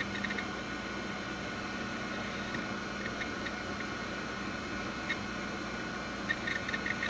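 Washing machine running with a faint steady hum and hiss, and scattered light ticks.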